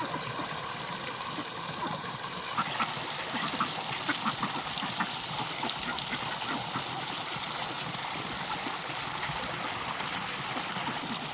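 Steady trickling water with a run of small splashes a few seconds in, from Indian runner ducks moving about in the water.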